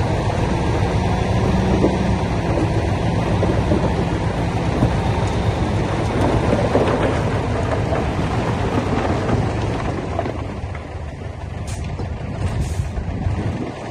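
Heavy diesel construction machine running steadily, its low engine note under a rough, dense clatter; the sound eases a little after about ten seconds.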